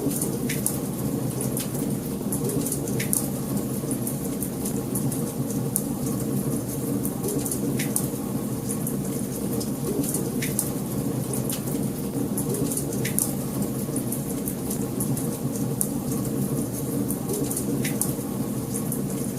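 Wood fire burning in a fireplace: a steady low rush of flames with frequent sharp crackles and a louder pop every few seconds.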